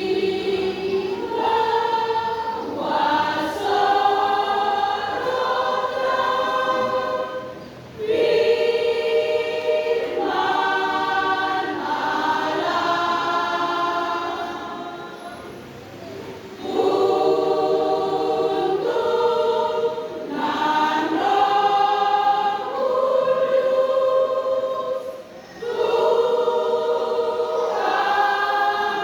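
Church women's choir singing a hymn in several-part harmony, in long phrases with brief dips between them.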